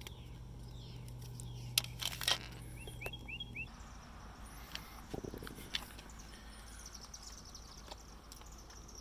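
Outdoor ambience: a quick run of short bird chirps, a few sharp clicks, and, after a low steady hum cuts off, a faint high insect hiss with a single low thump.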